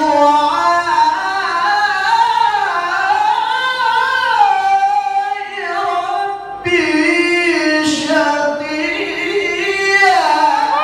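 A male qari's voice reciting the Quran in melodic tilawah style, drawing out long ornamented notes that wind up and down in pitch, with a brief break for breath about six and a half seconds in and a falling glide near the end.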